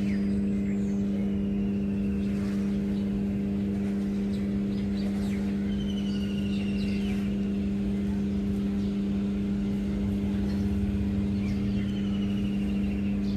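A steady, unchanging motor hum with a low rumble beneath it, and a few faint high chirps now and then.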